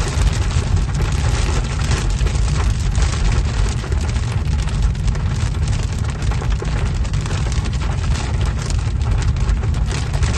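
Heavy rain pelting a moving vehicle, a dense steady crackle over a deep rumble of road and wind noise.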